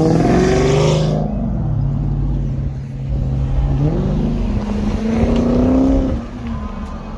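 A car engine revving at a standstill. Its pitch swings up and down, then climbs slowly over a couple of seconds and drops back off near the end.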